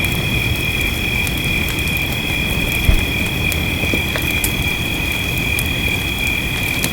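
Wood fire crackling, with sharp pops scattered through, over a low steady rumbling hiss and a constant high-pitched two-note night chorus; a single low thump about three seconds in.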